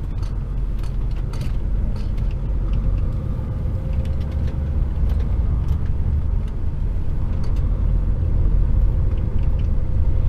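HGV tractor unit's diesel engine and road noise heard from inside the cab while the truck is under way: a steady, loud low rumble with a few faint clicks.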